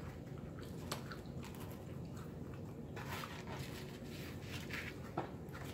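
Quiet eating sounds: a person chewing pizza with soft wet mouth clicks, while a slice of pepperoni pizza is pulled apart in its cardboard box. Two sharper clicks stand out, about a second in and near the end.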